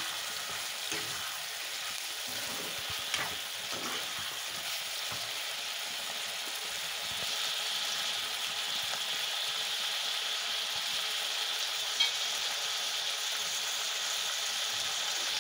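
Duck meat and onions sizzling in oil in a kadai, stirred with a steel spoon that scrapes and knocks against the pan a few times. The sizzle grows a little louder and steadier from about halfway.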